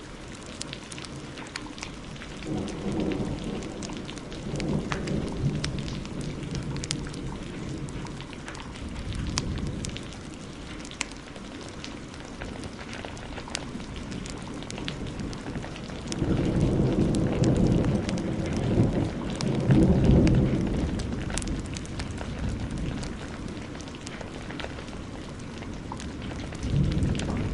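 Heavy rain falling steadily, with thunder rumbling twice: a first roll a few seconds in and a louder one a little past the middle. Sharp crackles of a wood fire pop throughout.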